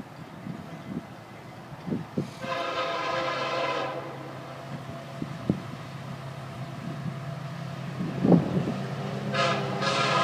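Diesel freight locomotive's horn blowing two blasts over the steady rumble of the approaching train: a blast of about a second and a half starting about two and a half seconds in, and another starting near the end.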